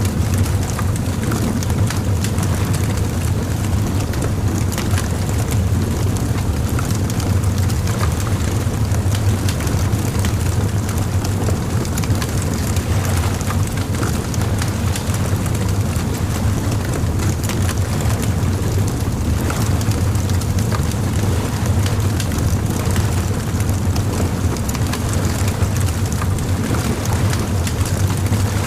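Bonfire crackling: dense, irregular small pops and snaps over a steady low rumble.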